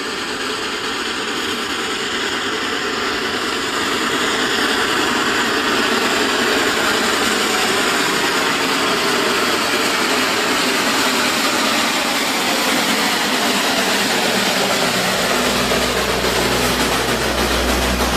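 A vehicle engine running under dense, steady rushing noise, growing louder about four seconds in. Low, steady musical notes come in near the end.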